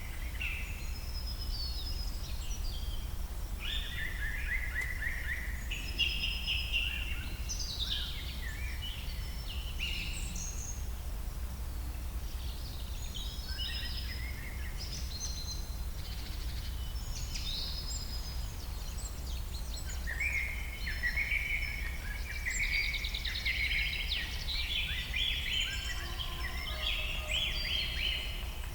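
Several songbirds singing and chirping, with overlapping trills and calls coming and going throughout, busiest near the end, over a steady low rumble.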